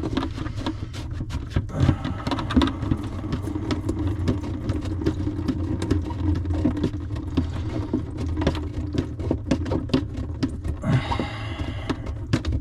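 Scattered clicks and knocks of a sink's drain P-trap being unscrewed and taken apart, over a steady low hum.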